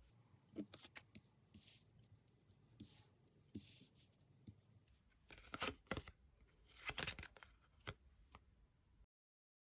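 Faint handling of tarot cards: a series of short papery rustles and slides, with sharper snaps of cards about two thirds of the way through. The sound cuts off suddenly near the end.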